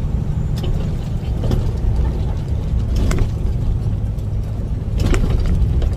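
Truck engine and road noise droning steadily inside the cab while driving, with a few short clicks and rattles.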